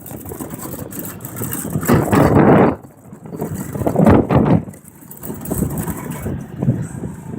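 Riding lawn mower engines running, swelling louder and dropping back several times.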